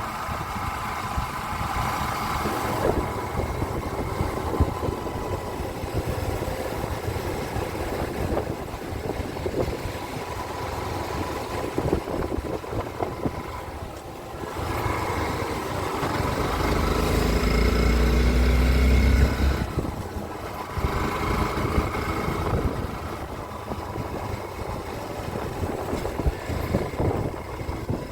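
Small-displacement motorcycle engine running at road speed, with wind noise on the microphone. A little past halfway it swells into a louder low rumble with a rising engine note for a few seconds, then settles back.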